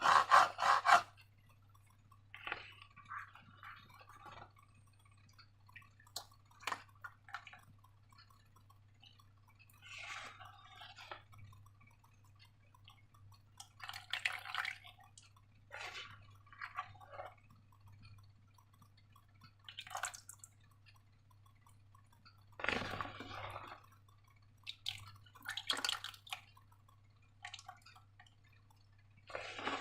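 Slime being worked by hand: scattered short, wet, sticky squelches and clicks every second or two, after about a second of rapid rubbing strokes at the start. A faint steady low hum runs underneath.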